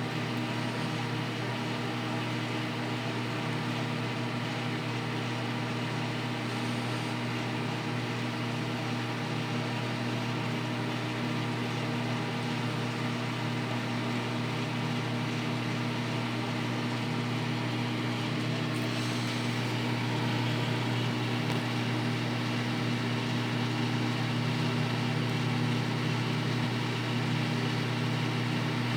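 Microwave oven running with eggs inside: a steady low electrical hum with a fan's whir, slightly louder about two-thirds of the way through.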